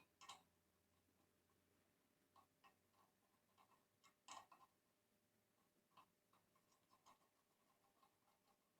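Near silence with a few faint, scattered clicks and taps, the clearest about four seconds in.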